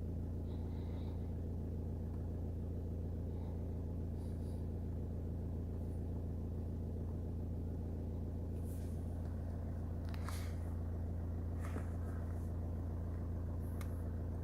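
Opel Y22DTR 2.2-litre four-cylinder turbodiesel idling steadily, with a few faint clicks in the second half.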